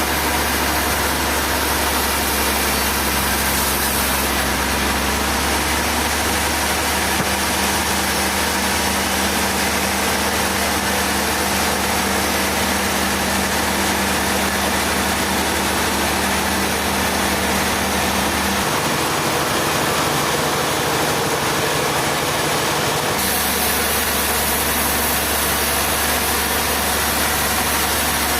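Heavy machinery engine running steadily, with a dense mechanical noise over it; its low hum shifts a few times, about 5 s, 18 s and 23 s in.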